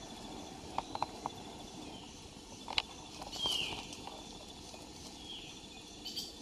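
Rainforest background with a steady high insect drone, a short falling bird call about three and a half seconds in, and a few sharp clicks and taps near the start and middle.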